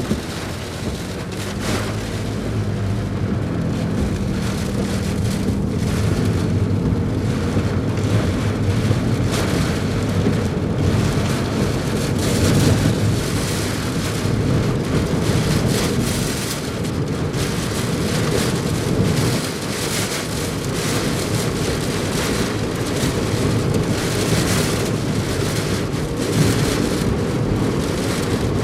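Heavy typhoon rain and strong wind from Typhoon Nanmadol (No. 14) near its closest approach: a dense, steady rush of rain with a low rumble, swelling and easing as the gusts come and go.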